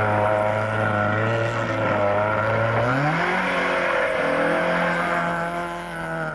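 A Mk1 Ford Escort being driven hard around cones, its engine pulling at steady revs. About three seconds in the revs rise quickly and hold higher, then drop near the end.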